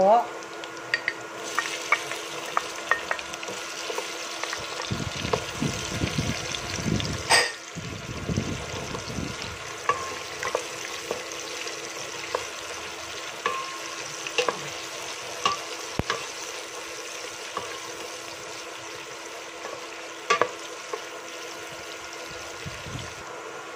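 Chopped garlic and white onion sizzling in canola oil in a stainless steel pot, stirred with a wooden spatula that scrapes and clicks against the pot now and then. The garlic and onion are close to golden brown.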